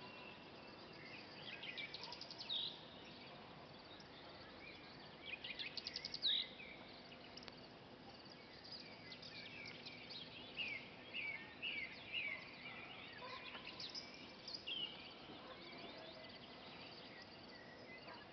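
Wild songbirds singing: a fast trill ending in a sweeping note, heard twice, then a run of short chirps, over a faint steady hiss.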